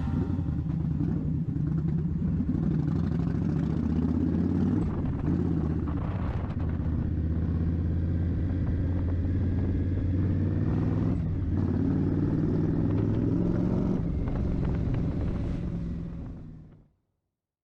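2019 Indian Scout Bobber's V-twin running through Vance & Hines Twin Slash 3-inch slip-on mufflers, a steady low exhaust note whose pitch rises and falls twice. It fades out quickly near the end.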